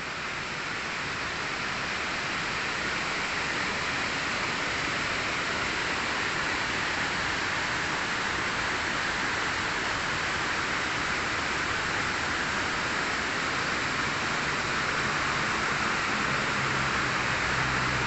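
Steady rushing of a jungle waterfall, an even roar of falling water. Near the end a low steady hum joins in and grows louder.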